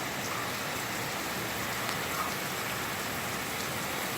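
Heavy rain pouring down in high wind, a steady hiss of rain with scattered drop ticks.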